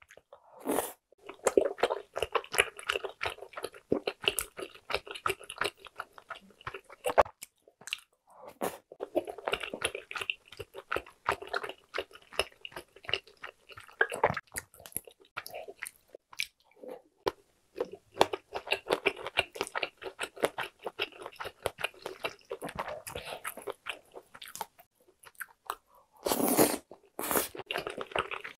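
Close chewing and biting of tteokbokki rice cakes and bunmoja, with wet, sticky mouth and lip smacks, going on in runs with a couple of short breaks. Near the end come two brief, louder noises.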